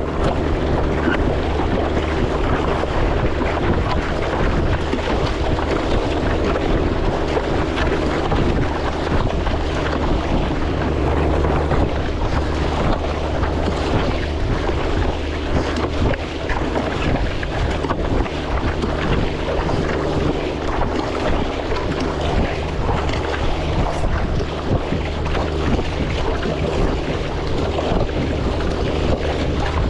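Strong wind buffeting the microphone over the sound of moving sea water and waves, steady throughout.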